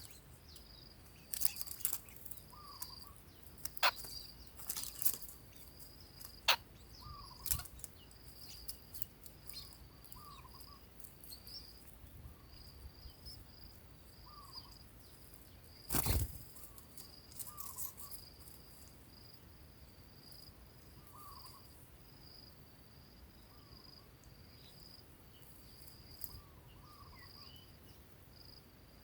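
Wild ambience: crickets or other insects trill steadily and high, pulsing, while a short curved call repeats about every two seconds at a lower pitch. Several sharp clicks fall in the first quarter, and one louder knock comes about halfway through.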